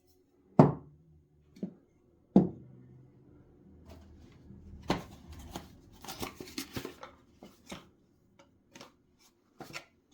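Objects being handled on a work surface: three sharp knocks in the first few seconds, then a stretch of light rubbing and clicking, with a few more taps near the end.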